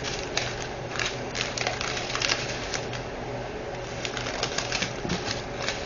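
Irregular light clicks and rustles of small plastic diamond-painting supplies being handled on a table, over a steady low hum.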